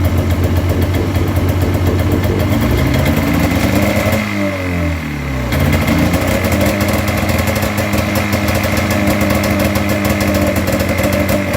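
Snowmobile engine running on its onboard fuel tank. About three seconds in its speed sags and falls away as if about to stall, then it picks back up about five and a half seconds in and runs steadily.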